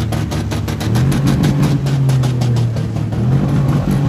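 Demolition derby vans' engines running loudly, a steady low drone with a rapid, even crackle over it that fades out about three seconds in.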